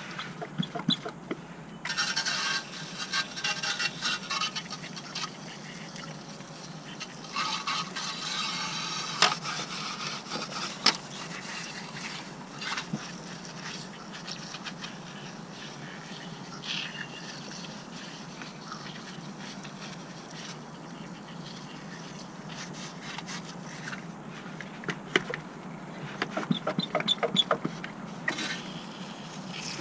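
Hand-tool work on a car: scattered metallic clicks and scrapes, with two stretches of hissing and rapid ticking early on and a quick run of clicks near the end.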